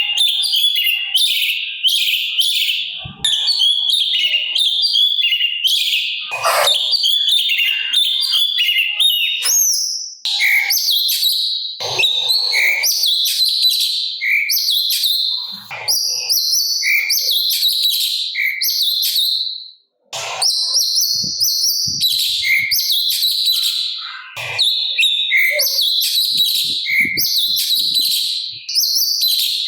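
Cucak cungkok singing loudly and continuously, fast varied phrases full of harsh, rough notes, with one short pause about twenty seconds in.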